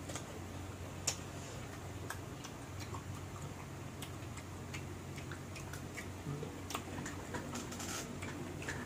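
Crisp raw green mango being chewed: irregular short crunches and mouth clicks, over a steady low hum.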